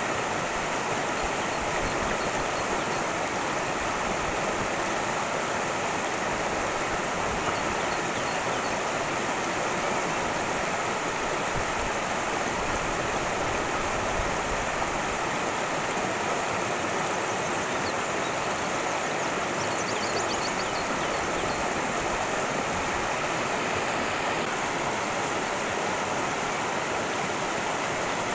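Cascading stream flowing, a steady, unbroken rush of water.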